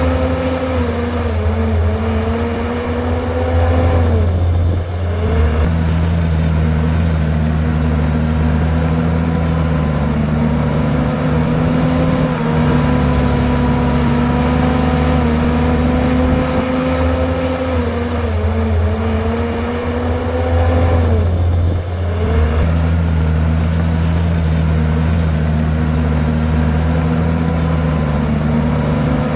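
Komatsu bulldozer's diesel engine running hard under load, with a steady pitched drone. Twice the engine note sags and then drops sharply before picking back up, once a little way in and again about three-quarters through.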